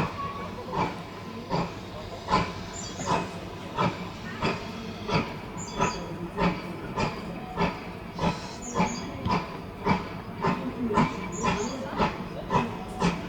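Steam train on the move: a regular beat, a little over one stroke a second at first and quickening to about two a second.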